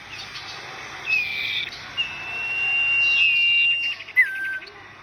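A caged songbird singing clear whistled notes: a short falling whistle, then one long steady whistle held about two seconds with another falling note over it, a quick rattle, and a lower note that drops in pitch near the end.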